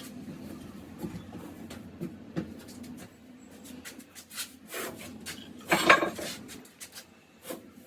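Scattered clinks, knocks and scrapes of metal hand tools, with the loudest cluster of clatter about six seconds in.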